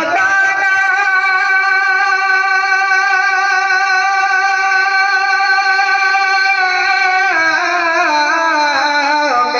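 Instrumental music: a melody instrument holds one steady note for about seven seconds, then plays a short falling phrase.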